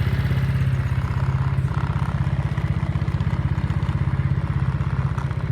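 Yamaha Majesty (SG03J) scooter's single-cylinder engine idling with a steady, even beat, which the seller describes as running well after regular maintenance.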